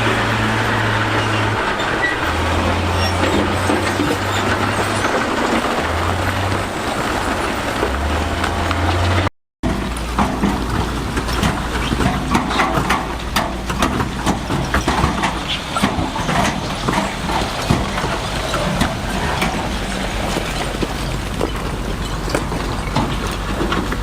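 Heavy diesel earthmoving machinery running, its engine note shifting in pitch by steps. After a brief cut, a steady low engine rumble with a dense clatter of stones knocking and scraping.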